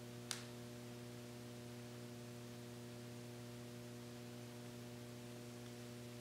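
Steady low electrical mains hum with a few even overtones, and one short sharp click about a third of a second in.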